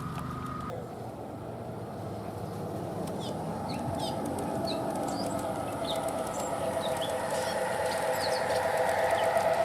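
Small birds chirping in short high notes over the steady hum of a G-gauge model train's motors and gears, which grows louder over the last few seconds.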